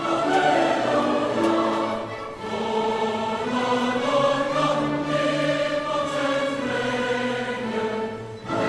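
Choir singing long, held chords that move slowly from one to the next, with a brief breath between phrases about two seconds in.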